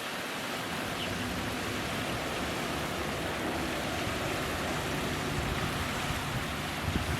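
Steady rushing noise of running water, even and unbroken, with a faint short high note about a second in.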